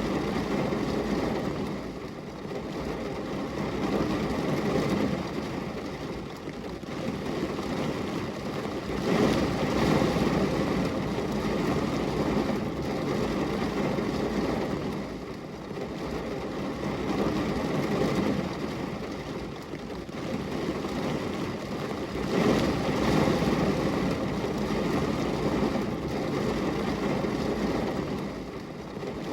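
Steady rain noise with a low rumble, swelling and easing every several seconds.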